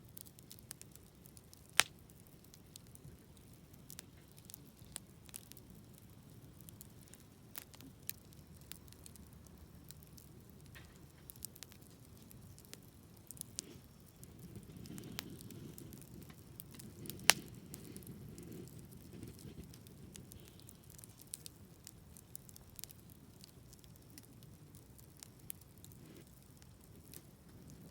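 Wood fire crackling, with scattered small pops and two sharp loud pops, one about two seconds in and one about seventeen seconds in. A low rushing sound swells in the middle.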